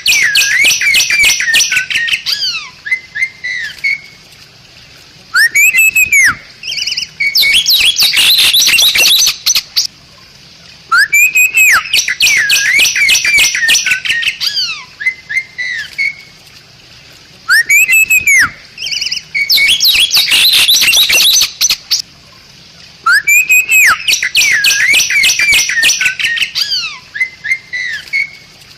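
Bali myna singing the same phrase over and over, about every six seconds. Each phrase is an arched whistle that rises and falls, followed by a fast run of rapid chattering and whistled notes, with a short pause before it repeats.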